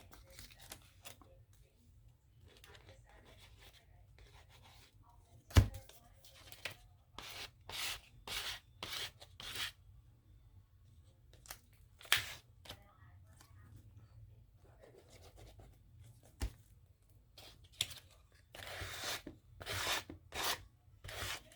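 Magazine paper cut-outs being handled, in short irregular rustling strokes that come thicker near the end, with a sharp knock on the table about five and a half seconds in and a lighter one near the middle.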